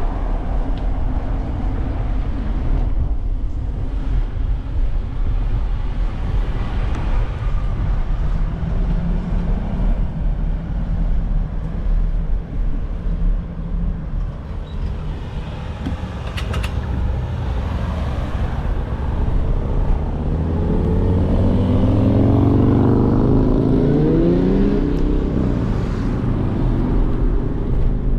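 Road traffic over a steady low rumble. From about twenty seconds in, a motor vehicle's engine grows louder and rises in pitch for several seconds.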